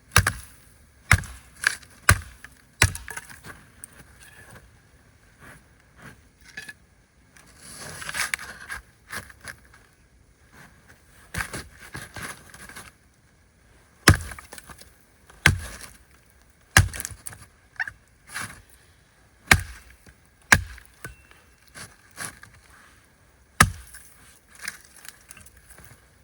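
Axe chopping wood: sharp single blows one to two seconds apart, with a pause in the middle and a brief crackling rustle of branches about eight seconds in.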